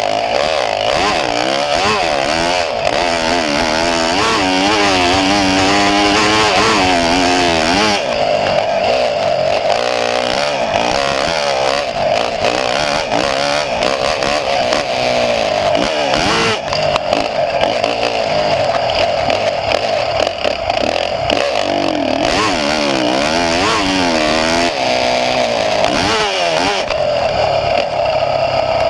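A small engine running loud, its pitch rising and falling again and again as it is revved up and eased off.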